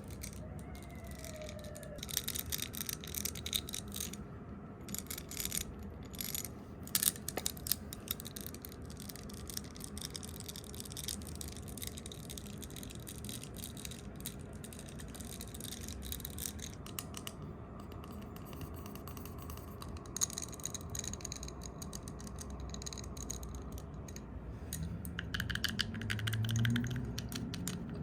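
Fast, close-miked ASMR trigger sounds: quick taps and clicks, then softer scratchy brushing and hand-rubbing sounds, which thicken into a denser rustling near the end.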